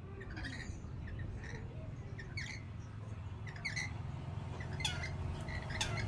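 Lory (nuri parrot) giving short chirping calls about once a second, over a low steady rumble.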